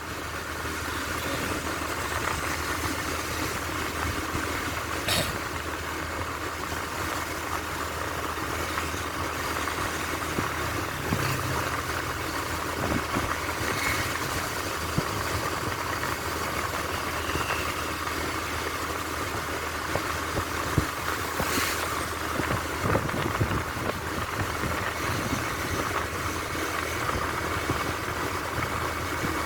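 A vehicle engine running steadily, a low, even hum under a constant noisy wash, with a few brief clicks.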